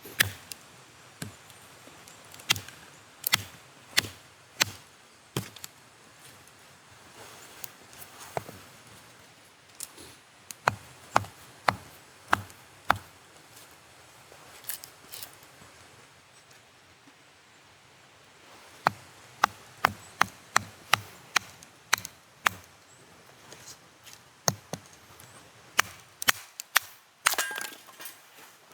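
Repeated chopping with a blade: short, sharp knocks in irregular runs, about two a second in places, with a pause of a few seconds midway.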